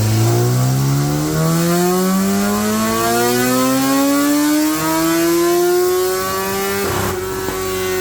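2016 BMW S1000XR's inline-four engine, breathing through a full Akrapovic exhaust, pulling at full throttle on a dyno: the note climbs steadily in pitch for about seven seconds as the revs rise. About seven seconds in there is a short burst of noise, and the engine then holds at a high, steady pitch.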